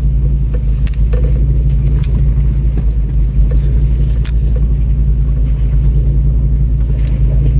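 Off-road truck's engine running at low speed over a rough rocky trail, a steady low rumble with a few sharp knocks and clunks as the rig crawls over rocks.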